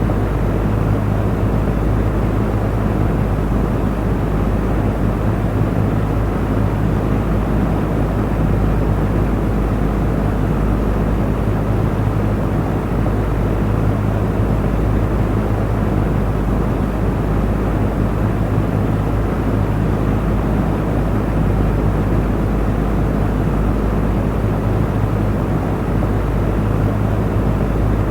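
Electric fan running steadily: a constant rush of air with a low, even motor hum underneath.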